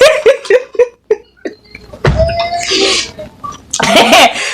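A person laughing in a quick run of short 'ha' sounds that fade out over about the first second, followed by a held vocal sound and a loud burst of voice near the end.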